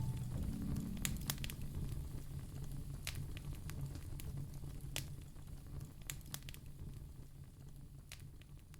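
Wood fire crackling in a fireplace: scattered sharp pops over a low steady hum, all fading gradually quieter.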